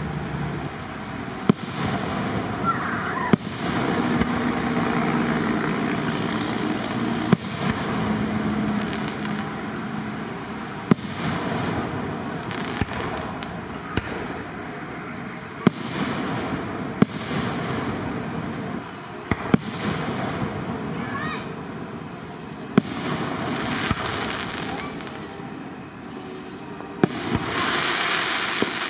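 Aerial firework shells bursting in a display, a sharp bang every one to two seconds.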